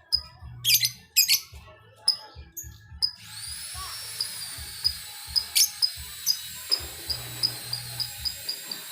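Lovebirds chirping in short, sharp bursts for the first three seconds, then a thin steady high-pitched ringing with light ticks at about three a second.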